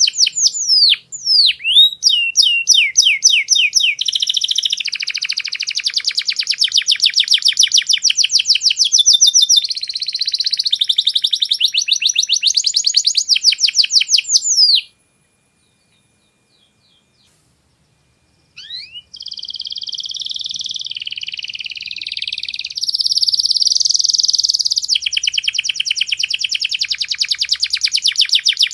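Domestic canary singing: long, fast rolling trills of repeated high notes, switching to a new phrase every second or two. The song stops for a few seconds about halfway through, then picks up again with a couple of rising notes.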